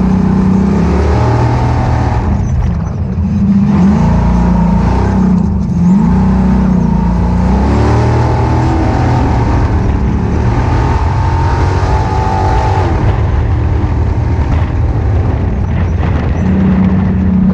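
Ultra4 off-road race car's engine running loud under hard throttle, its revs rising and falling. It briefly lifts off about three seconds in and again near the six-second mark.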